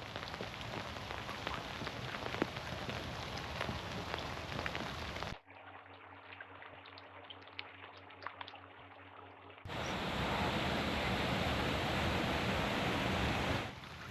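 Rain falling in a forest, a steady patter with many single drops ticking. About five seconds in it cuts to a quieter patter with clearer separate drops, and near ten seconds in to a louder, even rush.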